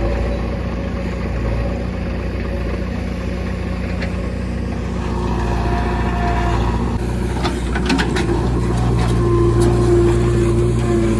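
Heavy diesel engine running steadily at a constant low hum, with a short cluster of sharp knocks about seven to eight seconds in.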